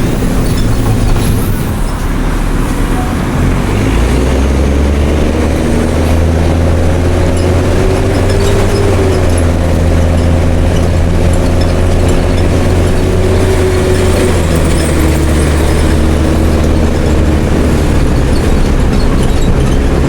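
Mercedes-Benz OM366LA turbo-diesel inline-six of a city bus running with an open exhaust while the bus is under way. The engine note steps up about four seconds in, holds steady, and drops back near fifteen seconds, as the automatic gearbox and throttle change.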